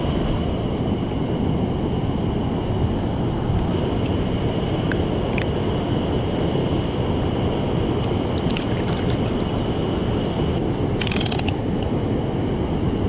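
Rushing mountain-stream water, a steady loud rush. About eleven seconds in there is a short burst of rapid mechanical clicking.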